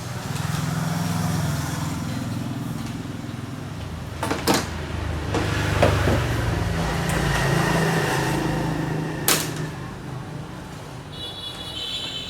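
A motor vehicle engine running close by, its low hum swelling and shifting in pitch over several seconds, with three sharp knocks. A few short high-pitched tones come near the end.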